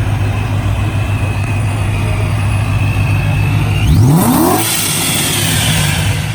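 Car engine idling with a deep, steady rumble, then revved once about four seconds in, its pitch climbing quickly, with a thin whine rising along with it.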